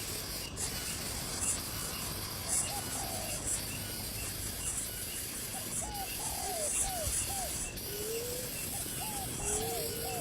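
Nestling birds begging: repeated high rasping calls in quick pulses, joined from about halfway by short squeaky chirps that rise and fall in pitch, over a steady hiss.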